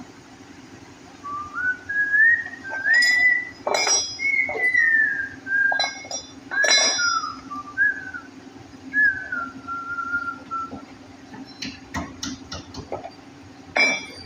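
A person whistling a wandering tune, with sharp metallic clinks every few seconds over a steady low hum. The whistling stops a little past halfway and the clinks go on.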